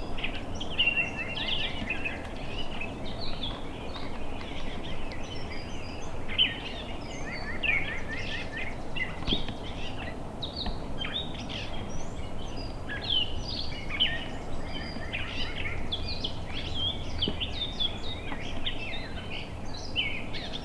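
Several songbirds chirping and singing continually, with short quick runs of stepped notes, over a low steady background hiss.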